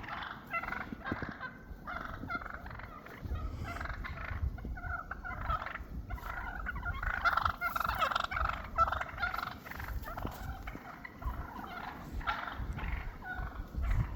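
A flock of wild turkeys calling, many short calls overlapping in a constant chatter as the birds sort out their pecking order.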